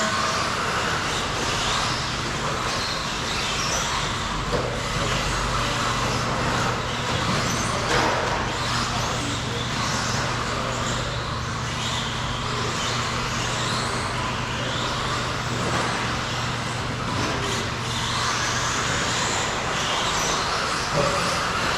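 A pack of electric RC stadium trucks racing: many brushless motors whining up and down in pitch as they accelerate and brake, with tyre and chassis noise, over a steady low hum.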